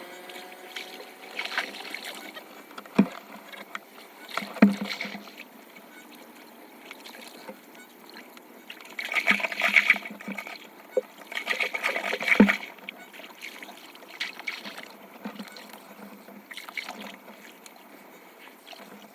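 Water trickling and splashing at a flooded street drain being cleared, with three sharp knocks and two louder bursts of splashing.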